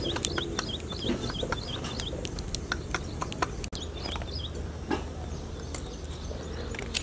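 A bird calling in a quick run of short, repeated chirps for the first second or so, over scattered sharp clicks and crackles and a steady low outdoor rumble.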